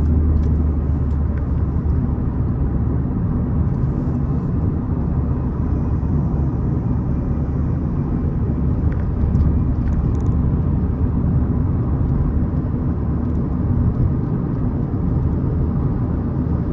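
Peugeot 207 being driven, heard from inside the cabin: a steady engine and road rumble.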